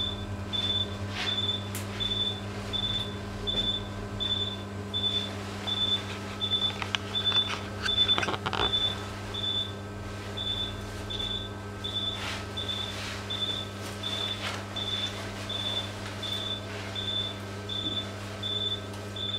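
Anaesthesia patient monitor giving its short high pulse beep, nearly three beeps a second, over a steady low electrical hum, with a few clicks about eight seconds in.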